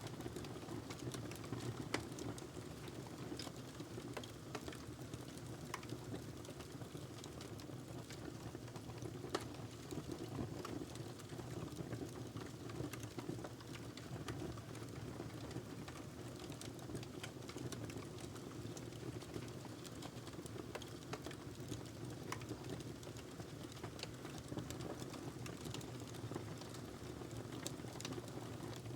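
Wood fire burning in a fireplace: a steady low rumble of flame with scattered crackles and pops throughout, the sharpest pops about two seconds in and about nine seconds in.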